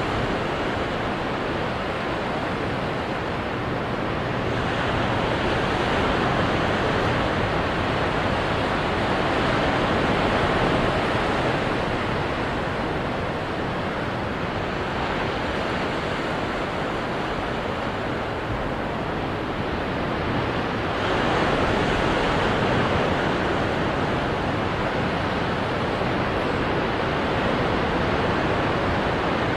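Ocean surf breaking on rocks: a continuous wash of waves that swells louder a few seconds in and again about two-thirds of the way through.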